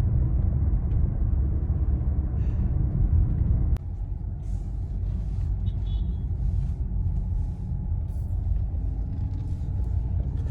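Low road and engine rumble inside a moving car. About four seconds in there is a sharp click and the rumble drops abruptly to a quieter level, with faint light ticks above it.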